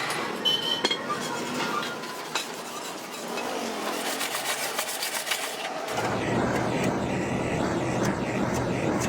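Tools tapping and scraping on metal in uneven knocks and rasps, typical of hand work on a truck radiator. About six seconds in the sound changes abruptly to a steady low hum under the work noise.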